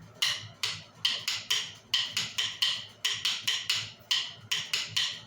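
Wooden sticks struck together in an uneven rhythm, about three sharp, ringing clacks a second, some coming in quick pairs.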